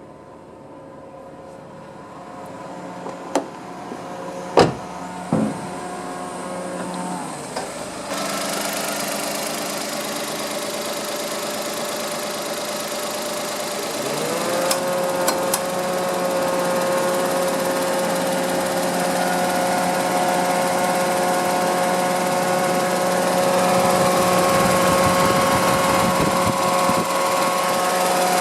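Nissan Moco's engine running, with a few sharp clicks early on, the running noise stepping up about eight seconds in, and a tone that rises and then holds steady from about halfway through.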